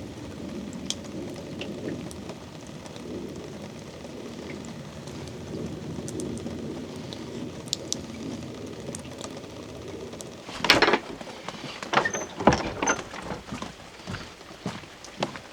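Steady rain pattering with scattered drips. About ten seconds in, loud, close crunching footsteps start.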